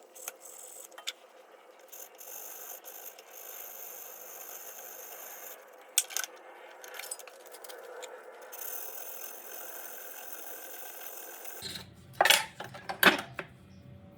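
Hand work on a small antique metal awl: steady light scraping and rubbing, broken by scattered clicks. Near the end come several loud, sharp clicks of small metal parts being handled.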